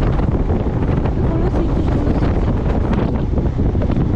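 Wind buffeting the microphone on a moving motorcycle: a loud, steady low rumble that does not let up.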